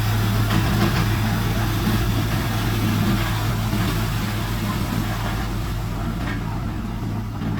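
Heavy diesel engine of earthmoving machinery running steadily with a strong low hum, easing off slightly near the end.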